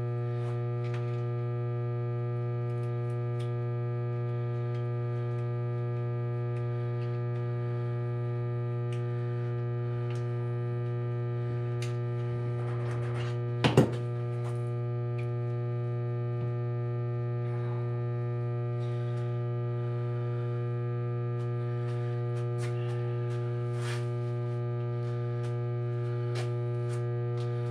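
Steady electrical mains hum throughout, with scattered faint clicks and one sharp, loud knock about halfway through.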